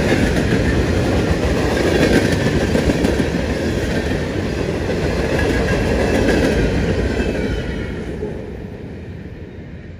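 Freight cars rolling past at speed, their wheels clattering on the rails. The rumble fades away from about seven seconds in as the end of the train goes by.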